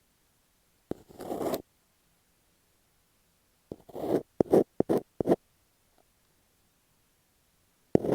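Masking tape stuck on an earphone microphone being scratched and rubbed right at the mic. The sound comes in short raspy strokes: one about a second in, four in quick succession a little before the middle, and one more at the very end, with dead silence between.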